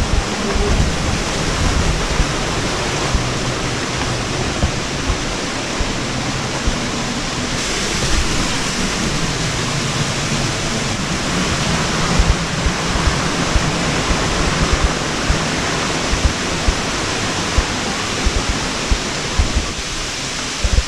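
Waterfall rushing steadily, an even dense noise of falling water, with irregular low thuds now and then.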